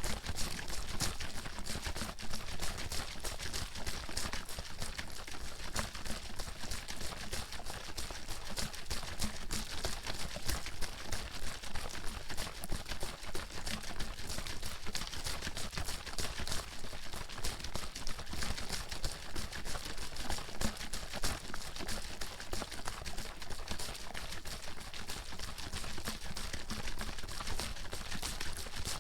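Bottle of water being shaken without pause, the water sloshing and slapping inside in a fast, even run of splashy knocks.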